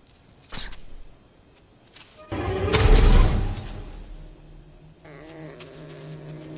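Crickets trilling steadily in the night veld. A loud whooshing swell rises and dies away about halfway through, and low sustained music notes come in near the end.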